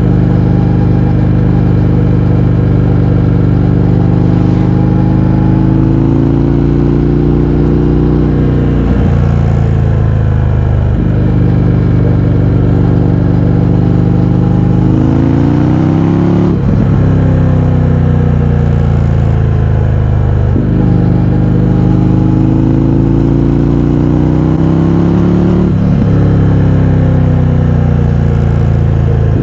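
Indian FTR 1200's V-twin engine through an Akrapovič exhaust with its baffles removed, riding under way. The revs climb several times, the pitch dropping sharply at each gear change, with steady cruising stretches in between.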